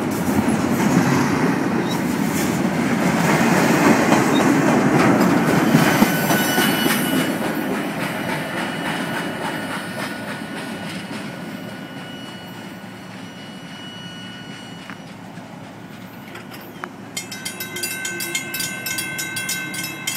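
Double-stack container train of well cars rolling past close by, its wheels rumbling and clacking on the rails, the sound fading as the train moves away. About three-quarters of the way through, a railroad grade-crossing bell starts ringing rapidly and steadily.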